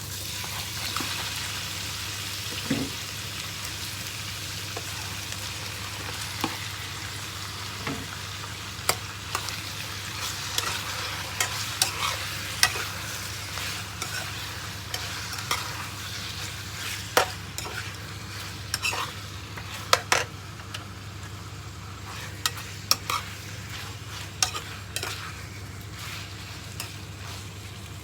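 Chicken pieces sizzling in hot oil in a pan, with a spatula clicking and scraping against the pan as they are stirred.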